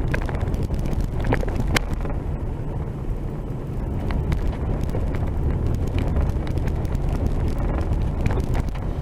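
Vehicle driving on a rough dirt road: a steady low rumble with scattered knocks and rattles.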